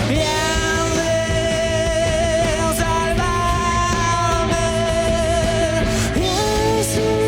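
Rock band playing with heavy distortion: a long held lead note with a slight vibrato over a steady, dense low end. The lead slides up to a new pitch a little past six seconds in.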